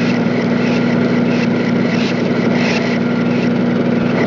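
A motor running steadily, with a constant low hum and a rough, even noise over it.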